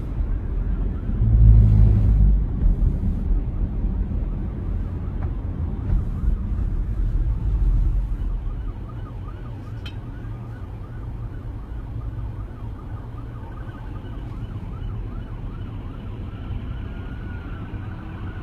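Police sirens sounding in fast rising-and-falling sweeps as the chase passes. Heavy low engine and road rumble is loudest for the first eight seconds or so, then eases off while the sirens keep going.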